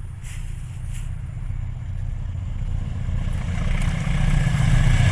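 A road vehicle approaching, its low engine rumble and tyre noise growing steadily louder.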